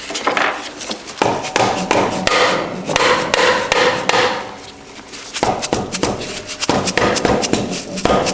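Rapid, repeated hammer blows on a Subaru six-speed transmission case, knocking the side plate loose, with metallic ringing between the strikes.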